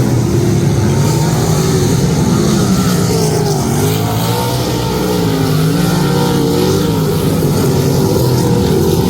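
Sprint car engine running hard on a dirt oval, its pitch repeatedly rising and falling as the car goes on and off the throttle.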